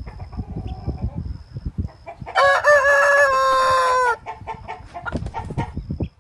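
Rooster crowing once, one long call about two seconds long near the middle, with short clucking sounds from the chickens before and after it.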